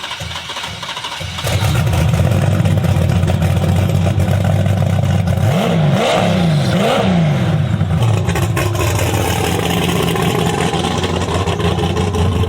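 Large piston engine of a drag-racing vehicle comes in loudly about a second and a half in and runs at idle. It is revved up and back down a few times near the middle.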